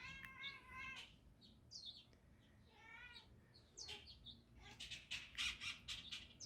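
Domestic cat chattering at a bird: short chirping trills in the first second and again about three seconds in, then a quick run of clicks near the end.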